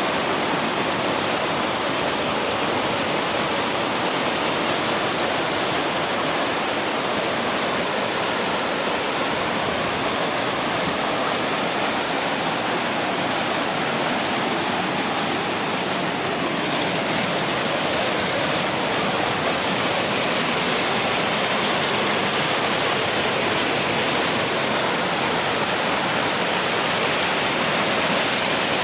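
Steady, unbroken rush of water from a mountain waterfall.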